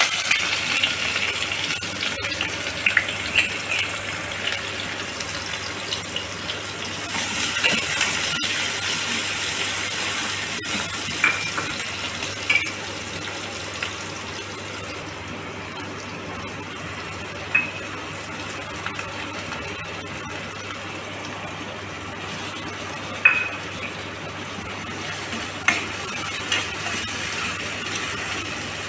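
Onion and green chilli sizzling in hot oil in a kadai, loudest at the start and steady after that. Now and then a metal spatula clinks sharply against the pan as the vegetables are stirred.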